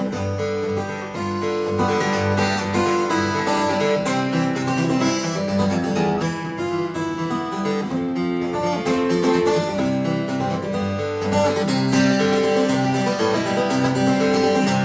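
Acoustic guitar playing an instrumental passage: a steady run of picked notes over a moving bass line.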